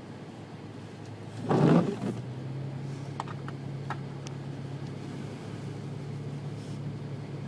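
A vehicle engine catching with a short loud burst about a second and a half in, then running at a steady low idle, with a few faint clicks.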